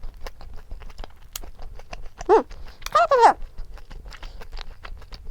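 A pet animal giving two short cries that rise and fall in pitch, about two and three seconds in, the second one longer. Light clicks of eating and utensils run underneath.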